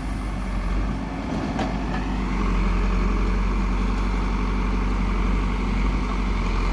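Heavy diesel construction-machine engine running steadily, getting a little louder about two seconds in.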